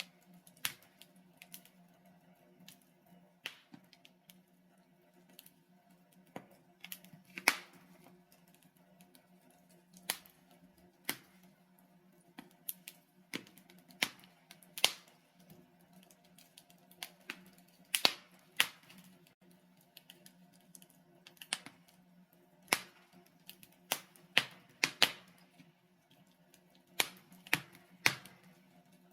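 Logs burning in a fireplace, crackling with irregular sharp pops, a few of them much louder, over a faint steady low hum.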